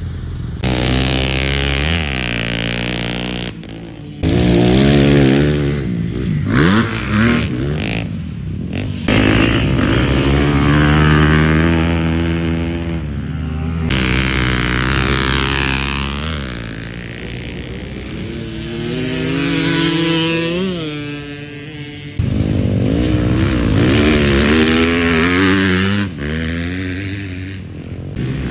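Motocross dirt bike engine revving hard and falling back again and again, the pitch climbing and dropping as the rider accelerates and shifts. The sound changes abruptly a few times.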